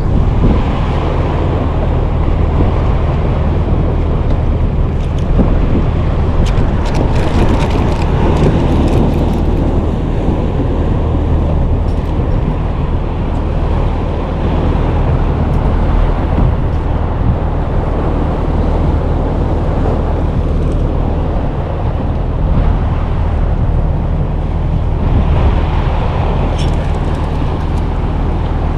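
Steady low hum of a small boat's motor running under wind rumbling on the microphone, with a few light clicks and rattles about five to nine seconds in.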